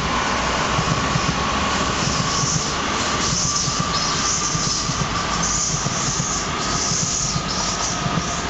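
A CRH1B electric multiple unit passing on the line, its wheels running on the rails with a steady rumble, hiss and a thin high whine. The tail of the train goes by near the end.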